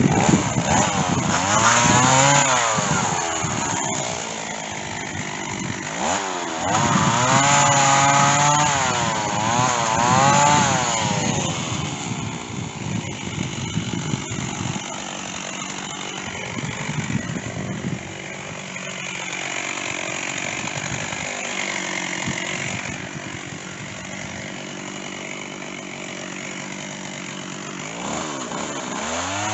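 Stihl chainsaw with a dull chain cutting white oak: the engine revs in several rising and falling surges over the first ten seconds or so, then runs steadier and lower, and revs up again near the end.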